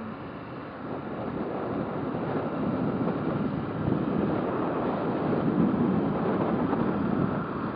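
A motorcycle in motion, with wind rushing over the microphone and engine and road noise underneath, growing louder over the first few seconds as speed picks up.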